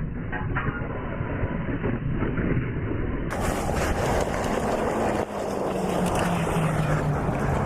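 A motorcycle riding, with engine and wind noise. About three seconds in, the sound cuts to a clearer recording in which an engine note sags a little and then rises again.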